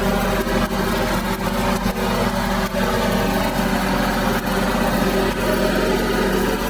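An engine running steadily at a constant speed, with irregular crackling over it.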